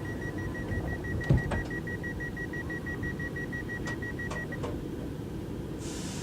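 Door-closing warning beeps of a Z50000 Francilien train: a rapid, steady series of high beeps that stops about four and a half seconds in, with a loud thump about a second in and a few sharp clacks as the doors shut. A hiss of air starts near the end.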